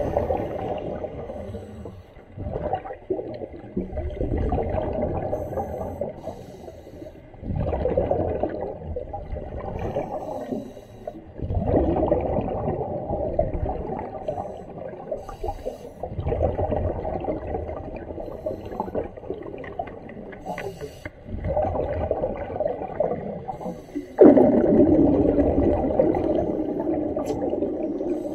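A commercial diver breathing underwater, a surge of gurgling sound every few seconds as the exhaled air bubbles out.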